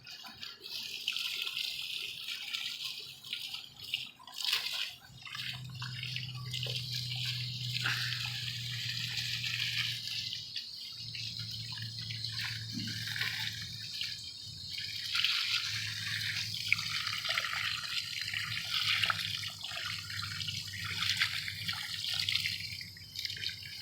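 Water from a hose spraying and splashing through the fins of a central air conditioner's outdoor condenser coil, rinsing dirt out, with dripping. A low steady hum joins in about five seconds in and breaks off briefly twice.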